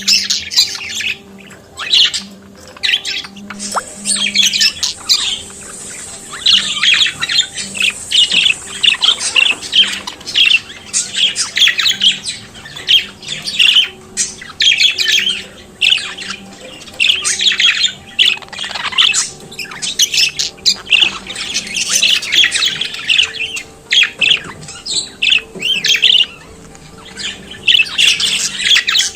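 Budgerigars chattering and warbling in a continuous, dense stream of short, fast-changing calls.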